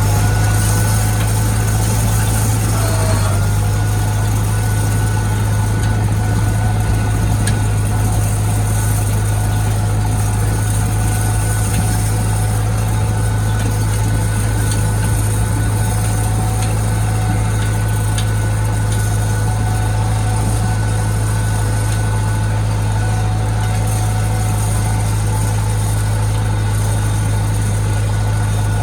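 International Harvester tractor engine running at a steady speed, a deep drone with a steady higher whine over it that dips briefly about three seconds in.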